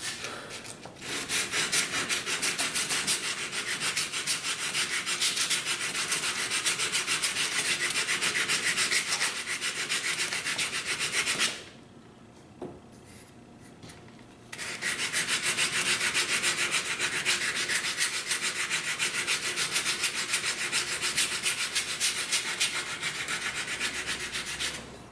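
Sandpaper being rubbed back and forth over the wooden fore-end of a Kentucky rifle stock in rapid strokes, blending the wood into the nose cap. The sanding runs in two long spells, with a pause of about three seconds just before the middle.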